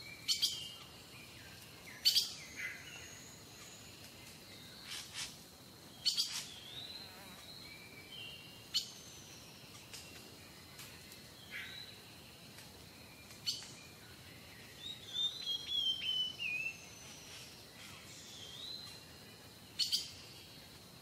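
Small birds calling and chirping in short, scattered calls, with a brief warbling run a little past the middle. About five sharp clicks stand out as the loudest sounds.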